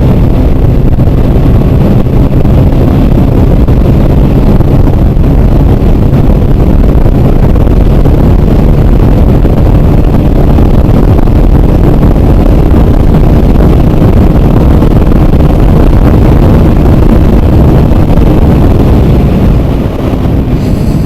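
Heavy wind buffeting on the microphone over a Hero Super Splendor BS6's 125 cc single-cylinder four-stroke engine running flat out at top speed, close to 100 km/h. A steady, loud rush with a brief dip near the end.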